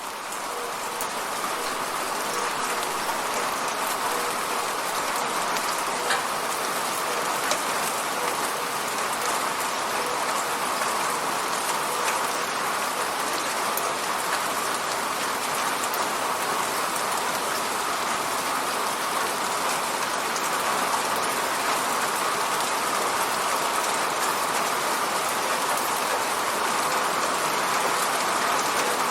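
Steady, dense rain hitting a window, fading up over the first second and then holding even, with a few faint drop ticks standing out.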